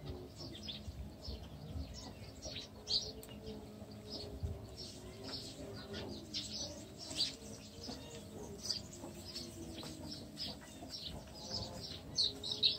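Small birds chirping, short high chirps coming every second or so, over a faint steady hum.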